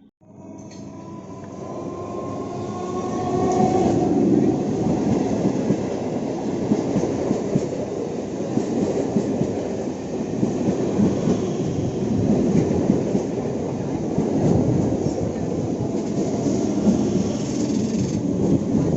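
EMU local train running on rails: a whine rises over the first few seconds as the sound builds up, then the wheels keep up a steady rumble on the track.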